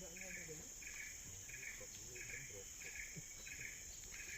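Tropical forest insects: a steady high-pitched drone with a repeating chirp about one and a half times a second over it.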